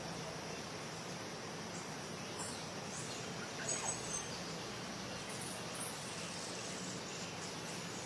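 Steady outdoor background noise with a few brief high chirps, clustered about three to four seconds in and again shortly after.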